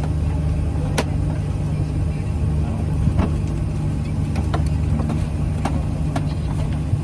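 Steady low rumble of a moving vehicle, with a few short light clicks scattered through it.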